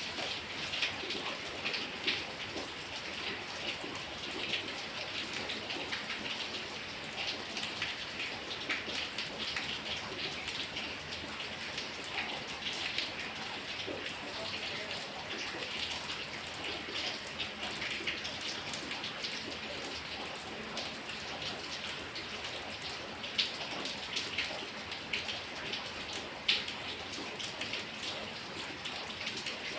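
Heavy rain falling steadily: a dense patter of drops, with a louder single drop striking close by now and then.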